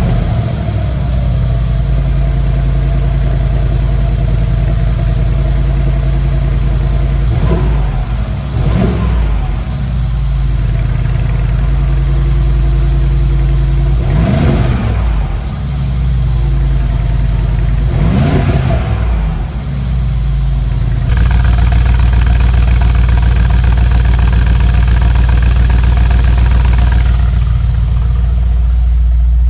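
Mercedes-AMG G 63's 4.0-litre twin-turbo V8 idling through its side-exit exhaust, blipped three times, each rev rising and falling back to idle. About two-thirds of the way through, it settles into a louder, deeper steady run.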